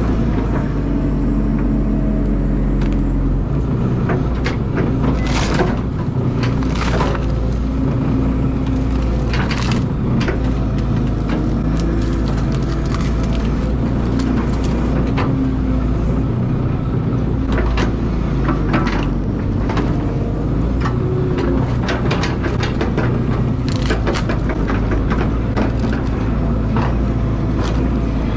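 Caterpillar excavator's diesel engine running steadily under load, with repeated sharp cracks and crunches as the bucket breaks through roots, wood and dirt around a large fir stump.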